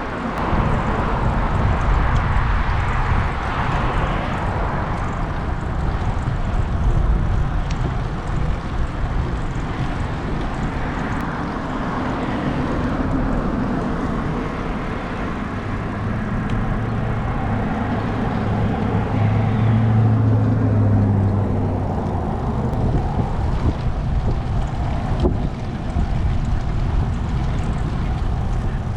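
Wind buffeting a GoPro Hero 8's built-in microphone while riding, a dense, steady low rumble. A low hum swells up in the middle and fades away again.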